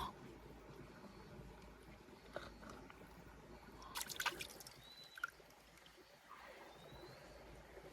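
Faint trickling water with small wet handling noises, a quick cluster of sharp clicks about four seconds in and another single click a second later. A few faint, short rising chirps sound in the second half.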